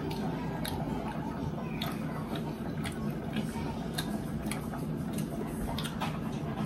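Close-miked chewing and wet mouth sounds while eating steak and mashed potatoes, with scattered small clicks and taps of cutlery on a ceramic plate. A steady low hum runs underneath.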